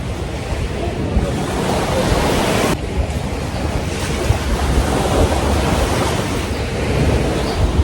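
Sea waves surging and washing on a beach, the noise rising and falling, with wind buffeting the microphone in a low rumble.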